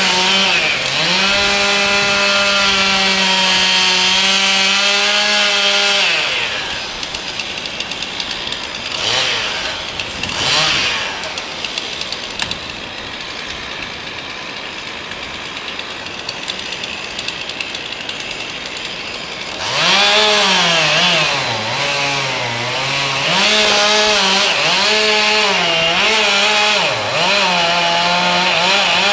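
Chainsaw running at high revs with a steady engine note for the first several seconds, then a quieter noisy stretch without the engine tone, broken by a couple of brief swells. Later the chainsaw comes back, revving up and down repeatedly.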